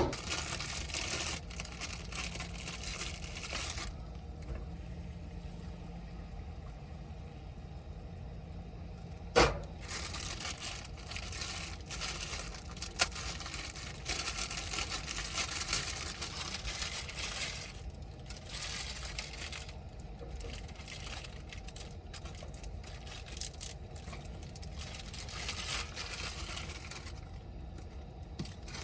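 Gas camp stove burning under a pot of boiling water, a steady hiss, with scattered clicks and rustles of handling and one sharp knock about nine seconds in.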